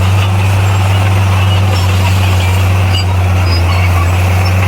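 Komatsu D58P bulldozer's diesel engine running steadily under load, a loud, even low drone that holds one pitch throughout.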